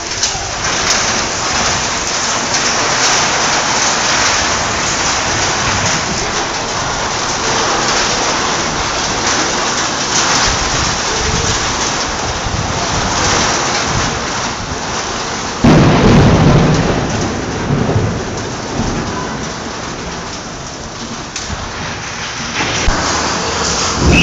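Heavy rain falling steadily during a thunderstorm. About two-thirds of the way in there is a sudden loud clap of thunder that rumbles away over a couple of seconds.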